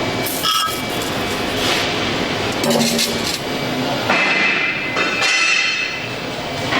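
Metal clinking and knocking from shop work, with background music.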